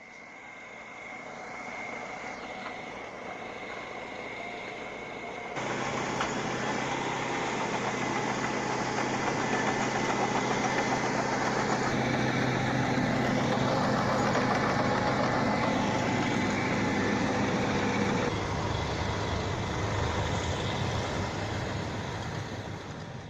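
A heavy vehicle's engine running steadily, getting suddenly louder about five and a half seconds in and easing off again near the end.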